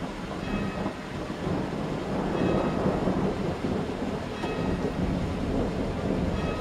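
Thunder rumbling over steady rain, swelling about a second and a half in and staying strong through the middle.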